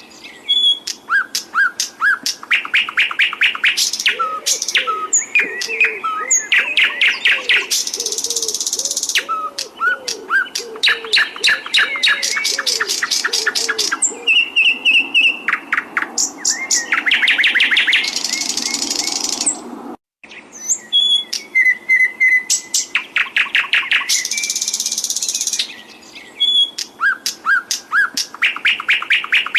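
Recorded songbird song, as played in a masteran training track: fast trills of short repeated notes, chirps and buzzy phrases in quick succession. The song breaks off for a moment about twenty seconds in, then the same passage starts again.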